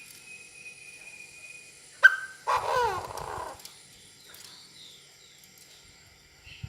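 A short animal call of about a second, falling in pitch, about two and a half seconds in. It follows a sharp click and a faint steady high tone.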